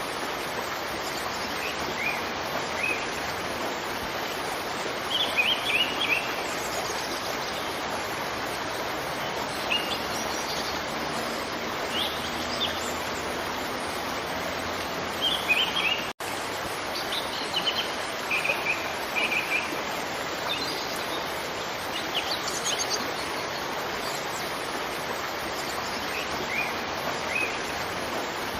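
Steady rush of a waterfall, with small birds chirping in short, scattered calls every few seconds. The sound cuts out for an instant about halfway through.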